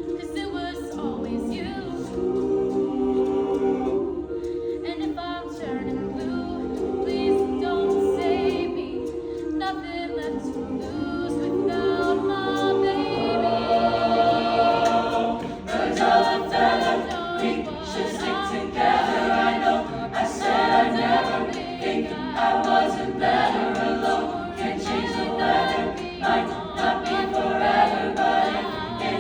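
Choir singing in harmony, with several voice parts holding chords together; the sound grows fuller and louder about halfway through.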